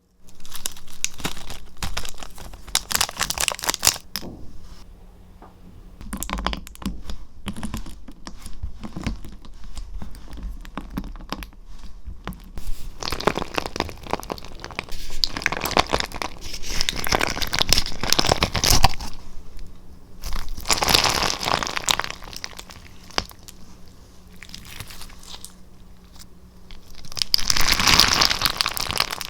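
Slime being squeezed, stretched and poked by hands, making crackling, crinkling and crunching sounds that swell and fade in waves, loudest near the end.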